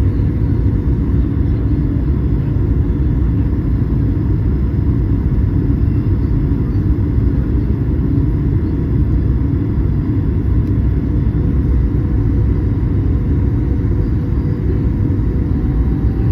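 Steady low rumble of an airliner heard from inside the cabin: engine and airflow noise with a faint steady hum over it.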